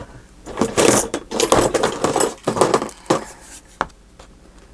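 Small hard objects clattering and rattling as a craft-supply drawer is rummaged through, with several sharp clicks.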